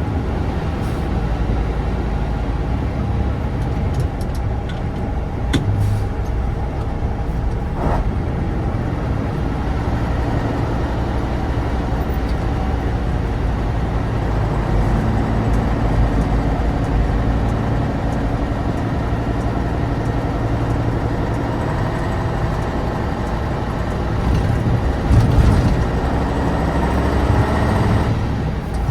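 1988 Tatra 815 dump truck's air-cooled, naturally aspirated V10 diesel running steadily as the empty truck drives, with a few short knocks. Near the end the engine pitch rises and it gets louder.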